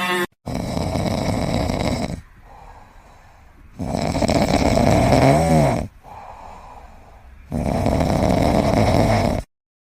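A pet snoring: three long snores about every three and a half seconds, the middle one with a short pitched wheeze in it.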